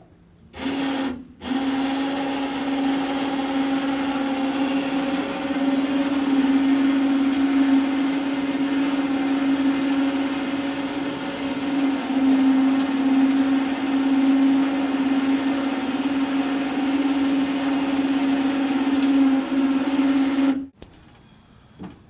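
Electric power winch in a pickup bed running under load as it pulls an ultralight trike up into the truck: a steady motor whine. It gives a short burst, pauses briefly, then runs continuously before stopping abruptly near the end.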